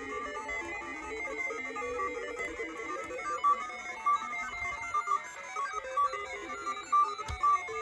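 Two Random Tone Machines, DIY electronic random tone generators, beeping out streams of short electronic tones that hop at random in pitch, the two streams overlapping, one of them through reverb. A few sharp clicks cut in during the second half.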